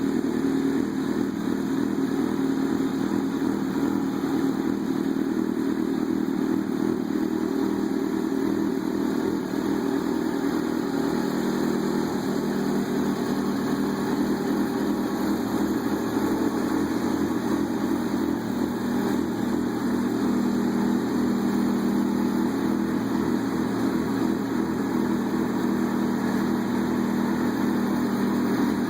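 Yamaha R6 sport bike's inline-four engine idling steadily through a Yoshimura aftermarket exhaust.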